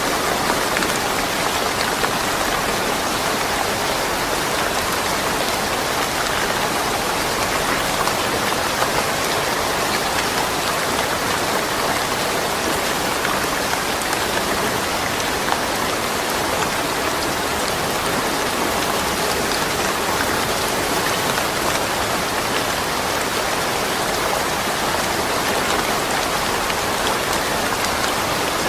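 Steady rain falling without thunder, an even hiss of countless drops with fine patter on surfaces.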